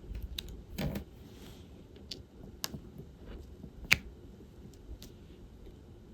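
Irregular light clicks and taps from diamond painting: a drill pen picking up resin drills and pressing them onto the canvas. There is a short rattle about a second in and one sharp, louder click near four seconds.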